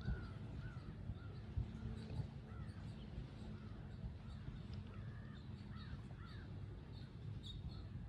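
Wild birds calling: a run of short calls that rise and fall in pitch, some in quick pairs, with faint higher chirps, over a steady low rumble of wind and water.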